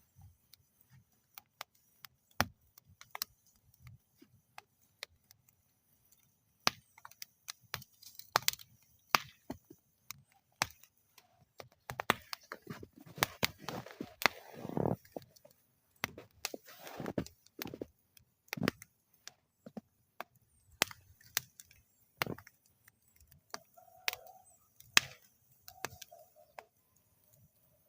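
Wood fire burning in a metal fire bowl: irregular sharp crackles and pops, with a denser spell of crackling and hissing about halfway through.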